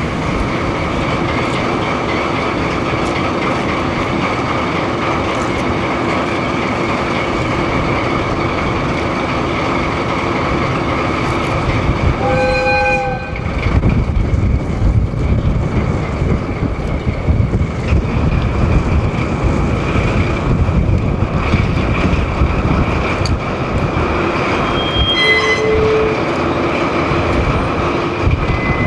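Diesel locomotive ND552 hauling a rake of KiHa 40-series railcars: a steady drone, then a short horn blast about twelve seconds in. After the blast the wheels rumble and clatter louder over the rails as the train goes by, with a brief pitched squeal or toot near the end.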